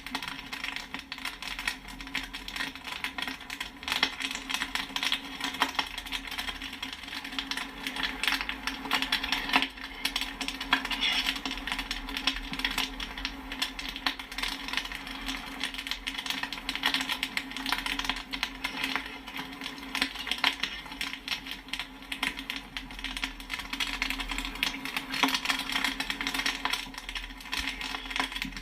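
Popcorn kernels popping in a fast, dense, continuous stream of sharp pops and pinging clicks, over a steady low hum.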